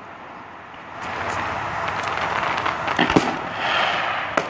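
Aerial fireworks bursting overhead: a steady hiss sets in about a second in, with a few sharp bangs about three seconds in and one more near the end.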